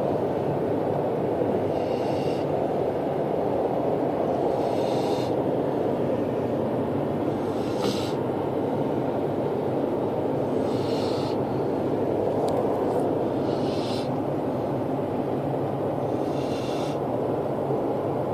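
Great Dane snoring in its sleep, a hissing snore about every three seconds, six in all, over a steady rushing background noise.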